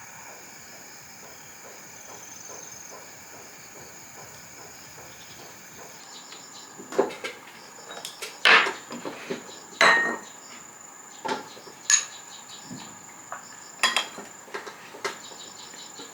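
Dishes and kitchen utensils clinking and clattering in a string of sharp knocks, starting about seven seconds in, over a steady high cricket chirr.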